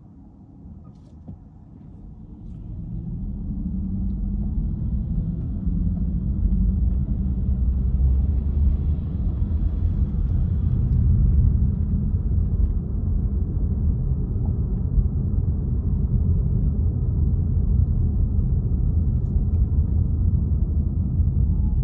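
Car driving along, a low engine and road rumble that swells over the first few seconds, then holds steady.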